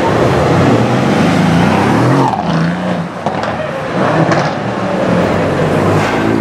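Mercedes-AMG C63 S sedan's V8 engine accelerating away in traffic. The engine note rises and falls through the gears, with a brief drop in level about two and a half seconds in before it climbs again.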